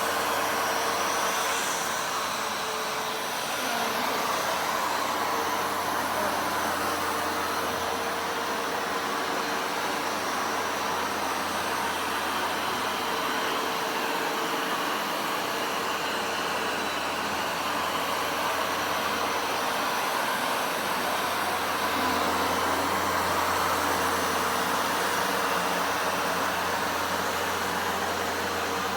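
Vacuum cleaner running steadily with an even motor hum and a rush of air.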